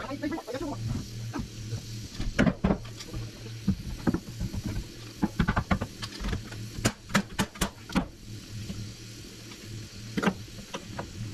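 Framing carpentry on a wooden floor: a series of sharp knocks and clacks, with a quick run of several about seven seconds in, over a steady low hum.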